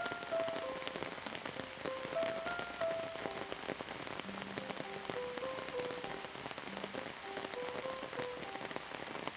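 Steady rain falling on a surface, an even hiss dotted with many small drop ticks. A soft, slow melody of single held notes plays over it.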